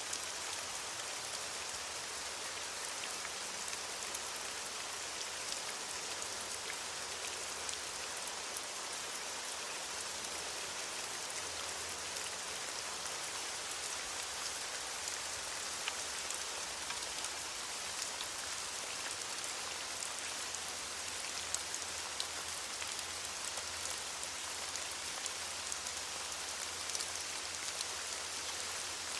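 Steady rain falling on leaves: an even hiss with many small drop ticks scattered through it.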